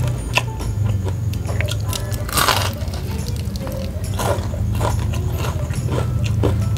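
A person chewing crispy fried chicken: dry crackly crunches mixed with wet chewing, with louder crunches about two and a half seconds in and again near the end, over a steady low hum.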